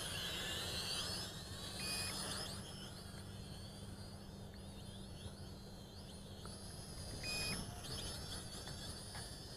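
Toy quadcopter's motors whining, the pitch rising and falling as it flips and manoeuvres, louder near the start and again about three-quarters of the way through. Two short beeps, one about two seconds in and one near the end.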